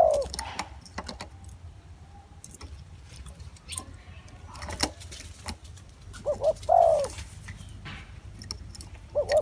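Spotted dove cooing: a couple of short notes running into a longer falling coo, the phrase heard about six and a half seconds in, with the tail of one at the start and another beginning at the very end. Scattered sharp clicks sound between the calls.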